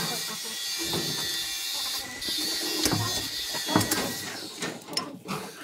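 Hand tools working on a tractor's gear lever and gearbox cover: metal clicking and scraping, with a run of sharp clicks and knocks in the second half.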